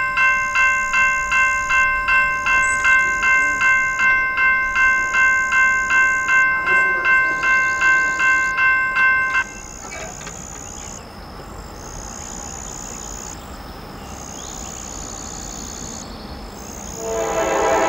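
A railroad crossing bell dinging about two and a half times a second, which cuts off suddenly about nine seconds in. Then comes a quieter, even rumble as the freight train approaches, and near the end the lead Norfolk Southern locomotive's multi-tone horn starts blowing loudly.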